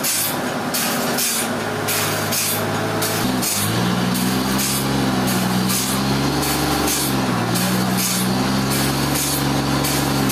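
Heavy machinery engine running under load, its pitch shifting up and down a couple of times, with a regular hissing pulse about three times a second over it.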